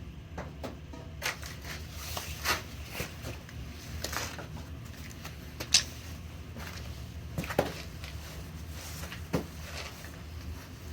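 Scattered clicks and knocks of tools and metal fittings being handled while a steam boiler's gauge glass assembly is worked on, over a steady low hum.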